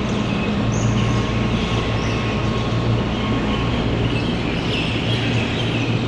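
A flock of common mynas chattering and calling in a tree over the steady low drone of a garbage truck's engine.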